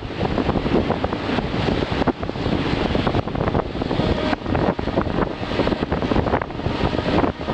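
Passenger train rolling through the station: a steady rumble with irregular clatter, mixed with wind buffeting the microphone.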